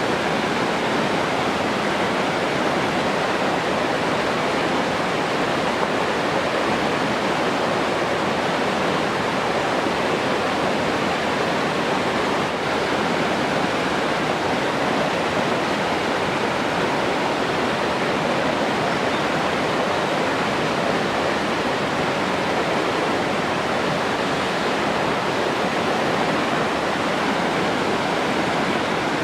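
Steady rushing water, an even, unchanging hiss with no distinct splashes or other events.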